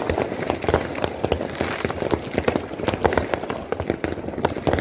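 Fireworks and firecrackers going off together in a dense, unbroken run of overlapping bangs and pops.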